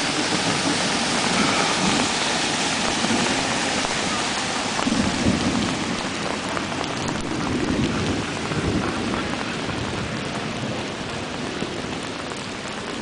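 Heavy rain pouring onto a flooded street in a thunderstorm: a steady, loud hiss, with low rumbles swelling up about five seconds in and again around eight seconds.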